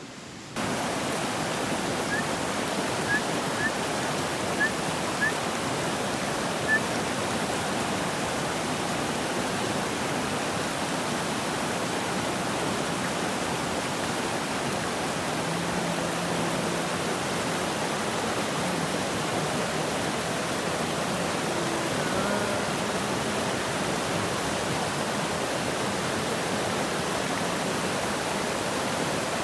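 Steady rush of flowing water, an even hiss holding at one level throughout. A few short, high chirps sound in the first several seconds.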